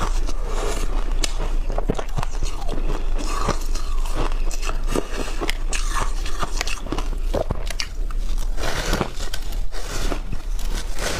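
Close-up crunching of shaved ice being bitten and chewed, in a dense, irregular run of sharp crunches.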